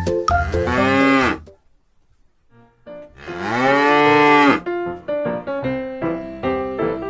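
A cow mooing twice: two long moos that rise and fall in pitch, with a short silent gap between them. A bouncy keyboard tune starts up again right after the second moo.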